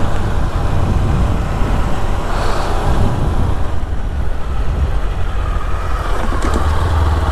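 Motorcycle on the move, a Kawasaki Ninja 300: a steady engine note with heavy wind rumble on the helmet microphone.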